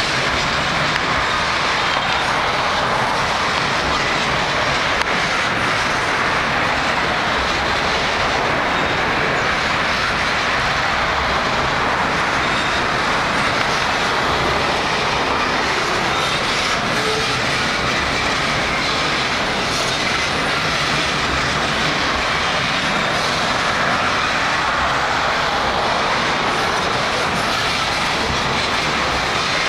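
Norfolk Southern freight train of coal hopper cars rolling across a steel girder bridge: a steady, continuous noise of steel wheels on the rails as car after car passes.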